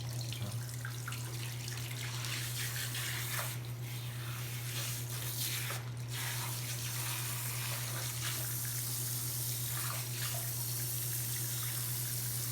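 Tap water running steadily, as in rinsing in a bathroom sink or tub, over a steady low hum.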